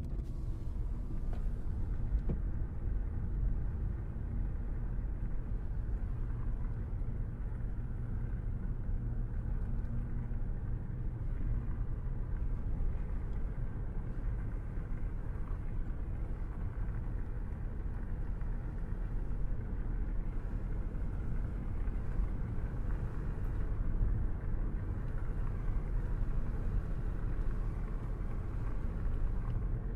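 A car driving at a steady speed: an even, low rumble of engine and tyre noise with no breaks.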